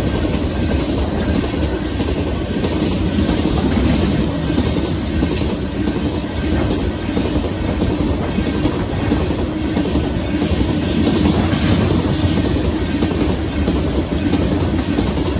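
Freight train of covered hopper cars rolling past close by: a loud, steady noise of steel wheels running on the rails.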